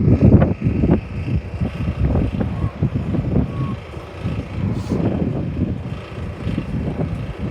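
Strong gusting wind buffeting the microphone, rising and falling, with the loudest gust in the first half second.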